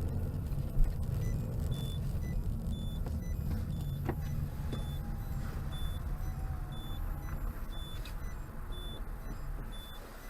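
Steady low engine and road rumble inside a moving car's cabin, with a short high electronic beep repeating about once a second and a sharp click about a second in.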